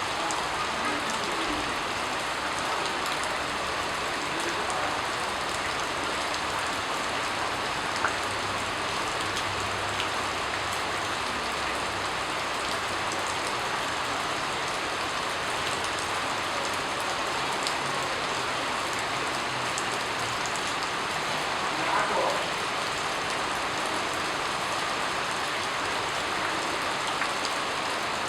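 Steady rain falling, an even patter throughout, with a couple of sharper, louder drops about eight and twenty-two seconds in.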